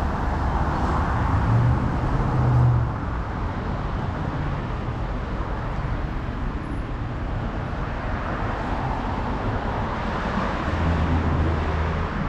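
Road traffic: motor vehicles driving past in a steady rush, with one passing loudest a couple of seconds in and another swelling near the end.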